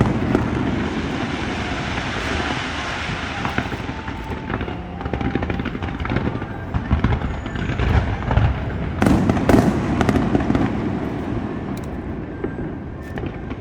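Fireworks display: a continuous rumble of shells bursting with crackling, with louder bangs near the start and again about nine seconds in.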